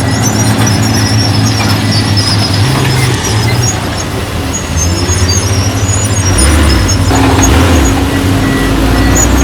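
Heavy diesel earth-moving machinery running loud under load, with the engine note shifting; it eases off about four seconds in and builds again a couple of seconds later.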